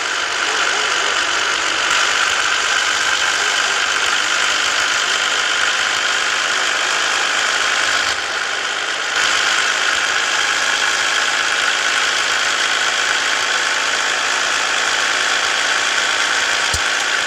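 Scania S 450 truck's diesel engine running steadily, with a steady high hum over the engine noise.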